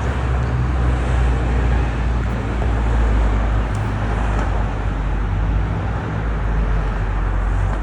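Steady low rumble of a vehicle engine with road noise, running evenly without change.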